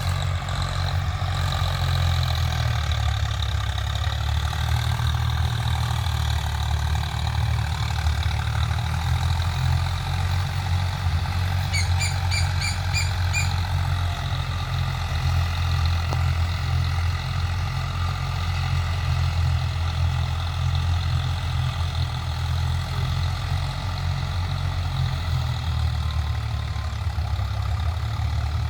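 Swaraj 744 FE tractor's three-cylinder diesel engine running steadily at an even speed, with a deep, unchanging note. About twelve seconds in, a short run of high chirps sounds over it.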